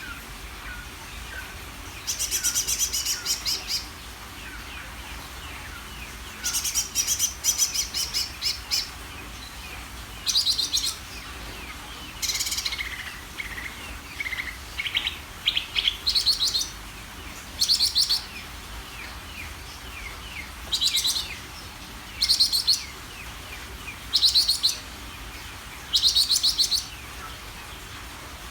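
Cucak ijo (green leafbird) singing in full song: about a dozen short bursts of rapid, high chattering trills separated by pauses, with a few falling whistled notes in the middle.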